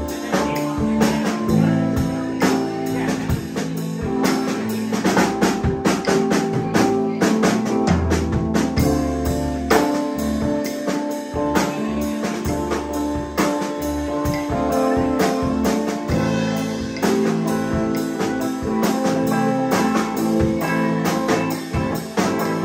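Live band playing an instrumental passage: electric guitar, bass and drum kit, recorded from the audience.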